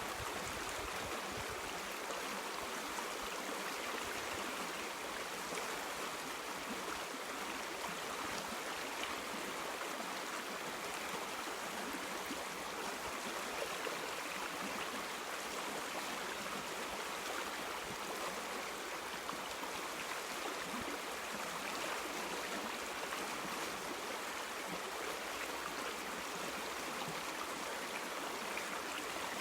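River or stream water flowing over stones, a steady rushing and babbling.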